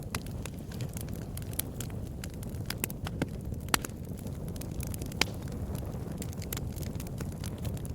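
Campfire burning: a steady low rumble of flames with irregular sharp crackles and pops, a couple of them louder near the middle.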